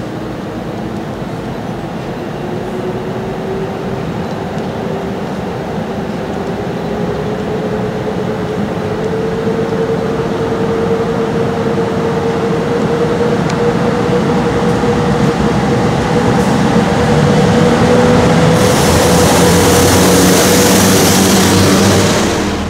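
Pafawag EP09 electric locomotive running, its motor whine rising slowly in pitch as it gathers speed, over a steady rumble. It grows louder throughout, with a bright hiss for the last few seconds.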